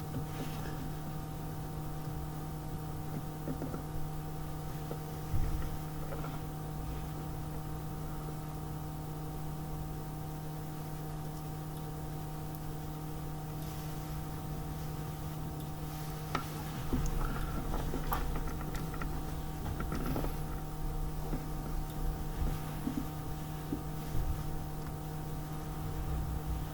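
A steady hum with several tones, with scattered light clicks and knocks that come more often in the second half.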